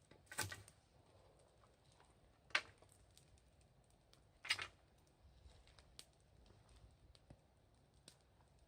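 Wood fire burning with faint scattered crackles and three louder pops, about half a second, two and a half, and four and a half seconds in.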